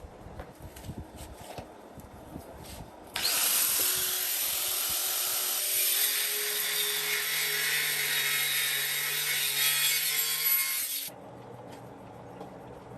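A power tool working against material for about eight seconds, a loud, even rasping hiss that starts and stops abruptly.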